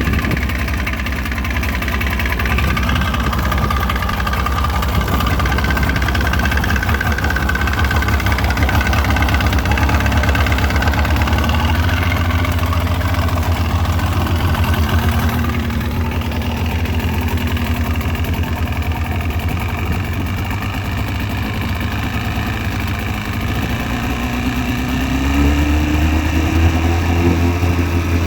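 2002 Mercury 115 hp outboard motor running at low speed, with a knock that the owner takes for piston slap. Its speed picks up a little about three-quarters of the way through.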